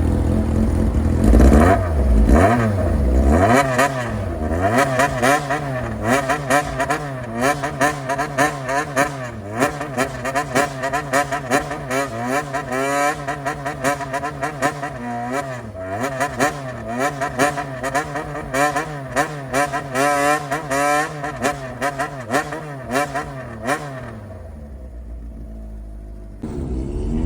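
Honda CBX400F's air-cooled inline-four through a straight-piped 4-2-1 exhaust, revved in a rhythmic low-rev call: the throttle is blipped over and over in quick patterns so the pitch swings up and down. It drops back to a quieter idle a few seconds before the end.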